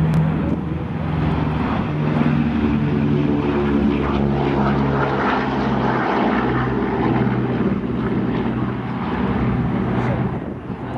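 Boeing B-29 Superfortress's four radial engines at takeoff power, passing by as a loud propeller drone whose pitch slowly drops before it begins to fade near the end.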